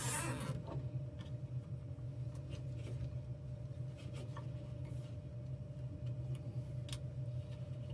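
Hand work on the furnace wiring: a short rasp right at the start, then scattered small clicks and taps, over a steady low hum.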